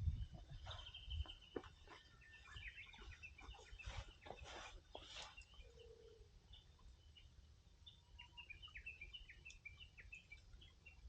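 Faint chirping and twittering of small birds, many short high calls, with a few sharp pops of burning firewood in the first half.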